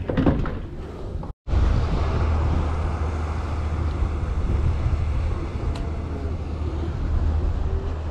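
Steady low rumble of wind on the microphone aboard a fishing boat, with the boat's engine running underneath. The sound drops out briefly about a second and a half in, then carries on steadily.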